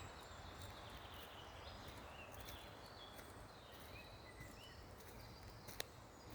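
Faint outdoor nature ambience: a steady low rumble with scattered short, high chirps, some sliding in pitch, and a single sharp click near the end.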